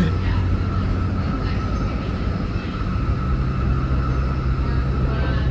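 A SMART diesel multiple-unit railcar running at speed, heard from inside the passenger cabin: a steady low engine and running hum with a thin high whine over it. The low note steps higher about three seconds in.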